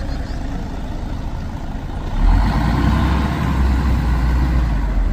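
Diesel bus engine running close by in street traffic, with a heavier low engine rumble growing louder about two seconds in.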